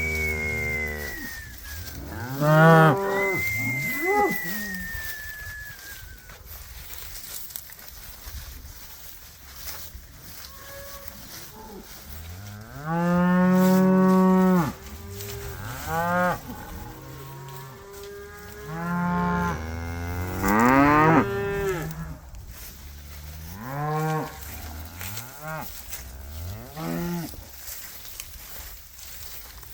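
Several Red Angus cattle mooing on and off, about nine separate calls of varying pitch. The longest and loudest comes about halfway through.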